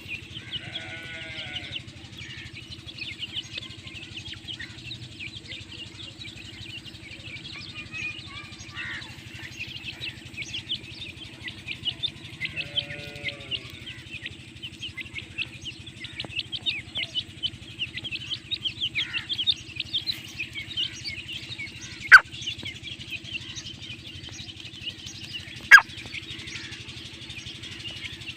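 Busy, continuous twittering of birds over a steady low hum. Two short, drooping, bleat-like animal calls come about a second in and again around the middle, and two sharp clicks come near the end.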